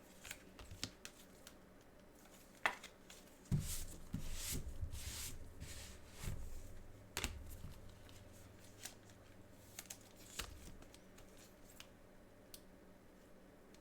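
Trading cards and their packaging being handled on a table: scattered light taps and clicks, with a busier stretch of rustling a few seconds in.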